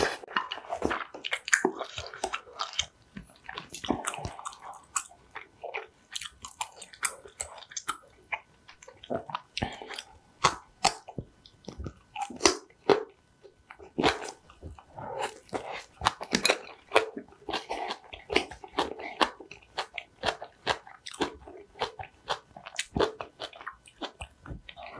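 Close-miked chewing of a mouthful of rice and spicy green onion kimchi, with many irregular wet mouth clicks.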